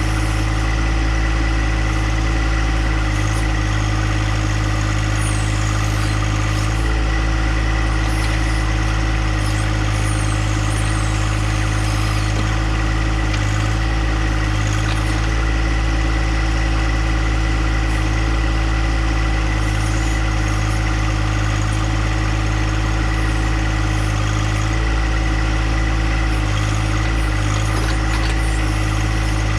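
John Deere compact tractor's engine running steadily, its note shifting slightly about 7 seconds and again about 25 seconds in.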